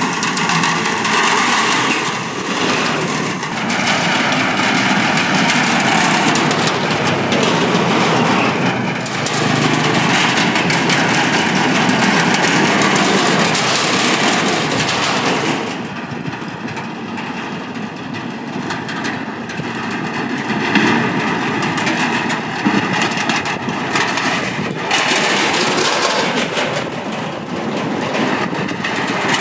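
Steady stream of motorcycles and scooters crossing the Cẩm Kim steel bridge, engines running and overlapping continuously. The traffic eases a little about halfway through, then picks up again.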